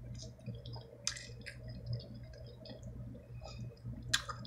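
Close-up eating sounds of a Chinese BBQ sparerib being bitten and chewed: soft wet squishing and lip smacks, with two sharper clicks, about a second in and near the end.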